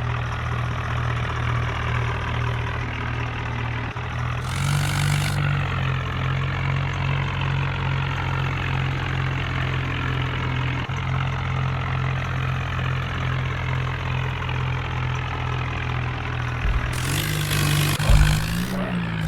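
Heavy diesel engine running steadily. It speeds up about four seconds in and rises and falls in speed near the end, with two short bursts of hiss.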